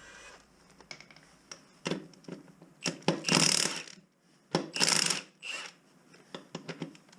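Scattered clicks and knocks of tools being handled on metal, with two loud hissing bursts of about a second each in the middle.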